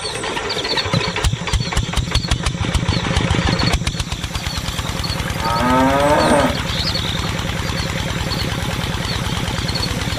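Small engine chugging steadily with a rapid, even beat. Roughly halfway through, a cow moos once with a long call that drops in pitch, and faint bird chirps sound above.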